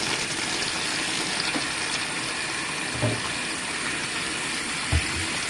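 Water pouring into a washing machine's tub as it fills for the final rinse: a steady rushing hiss, with a couple of faint low knocks about three and five seconds in.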